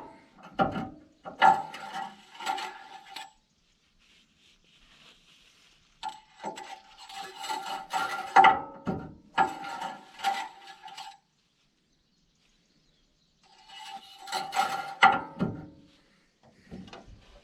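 Metal clattering and scraping of bulldozer caps, covers or a dipstick being handled during a fluid check, in three bouts separated by quiet gaps, with a ringing metallic tone running through each bout.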